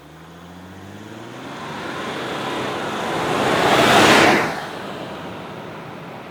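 Mercedes-Benz X350d's 3.0-litre turbo-diesel V6 accelerating, its engine note rising. Tyre and wind rush swell to a peak about four seconds in and fall away quickly as the ute drives past.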